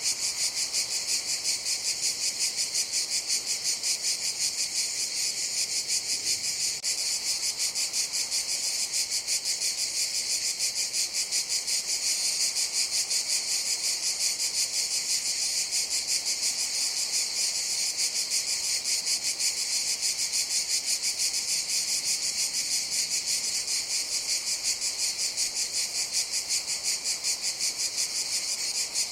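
Cicadas singing in a steady, loud, high-pitched chorus with a rapid, even pulsing throughout.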